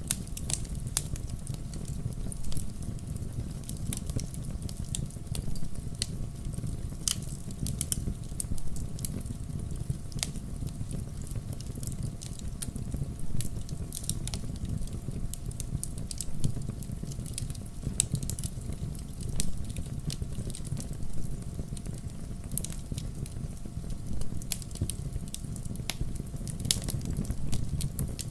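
Wood campfire crackling: a steady low rumble of burning logs with irregular sharp pops and snaps scattered throughout.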